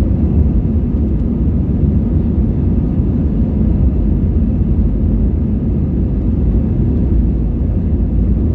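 Airplane engines at takeoff power, a steady low rumble that holds even throughout.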